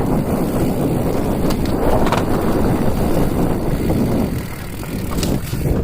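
Steady vehicle noise with wind buffeting the microphone.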